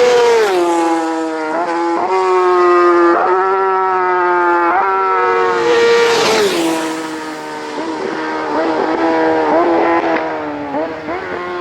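Racing motorcycle engines at high revs passing at speed, the engine note dropping sharply as each goes by, twice. Short dips in the note come between the two passes.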